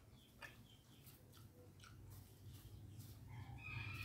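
Faint chewing and a few small mouth and finger clicks of someone eating by hand, over a low steady hum.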